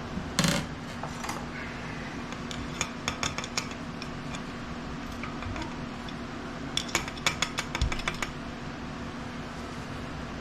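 Small metal tools and engine parts clinking and clicking as they are handled on a workbench. There is a brief louder clatter about half a second in, then two runs of quick light clicks, around three seconds in and again near eight seconds.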